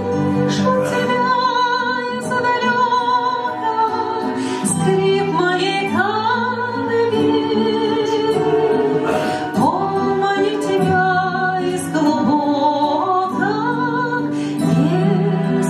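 A woman singing long held notes with wide vibrato and sliding attacks, over a low sustained instrumental accompaniment.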